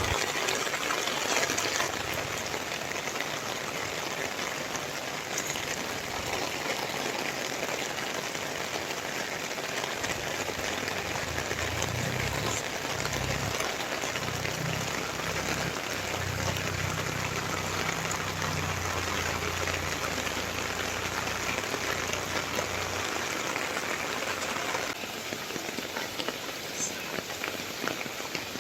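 Steady rain falling and splashing on hard surfaces, an even hiss throughout. A faint low hum sits under it through the middle stretch.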